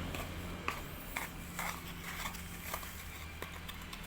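Hands digging and scraping in sand: soft, irregular scrapes and taps about every half second, over a low steady hum.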